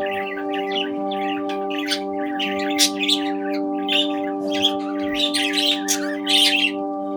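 Budgies chirping and chattering in quick, irregular calls, over background music of held chords.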